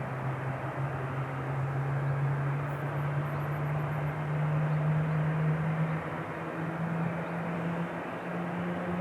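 Qatar Airways Airbus A350's Rolls-Royce Trent XWB engines running as it begins its takeoff, a steady jet drone whose low hum climbs slowly in pitch as the engines power up.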